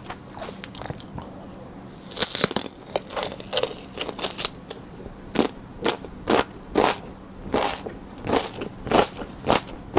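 A crisp bite into a raw mini bell pepper about two seconds in, followed by crunchy chewing at about two crunches a second.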